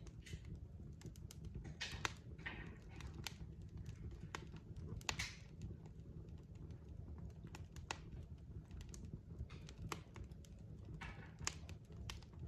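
Wood fire crackling in a fireplace: irregular sharp pops and snaps over a low steady rumble of burning logs, with a few short hisses.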